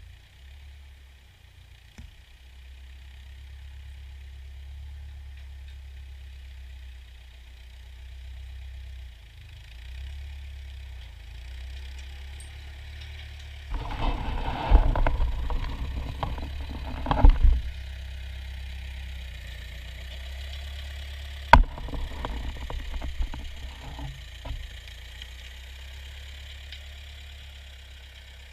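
Ford farm tractor engine running with a steady low drone. About halfway through there are a few seconds of loud knocks and rattles, and later a single sharp crack followed by more scattered knocks.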